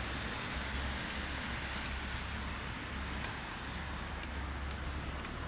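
Steady hiss of road traffic, with a few faint clicks.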